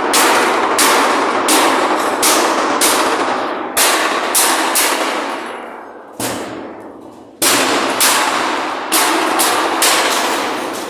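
Hammer blows on sheet-metal ductwork: about a dozen sharp metallic strikes at roughly one a second, each ringing out, with a longer pause a little past the middle.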